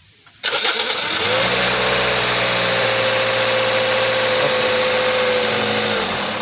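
Toyota 1NZ-FE 1.5-litre four-cylinder engine cranked and started about half a second in, then running steadily at idle with the cooling system open for refilling and air-bleeding. The sound falls away near the end.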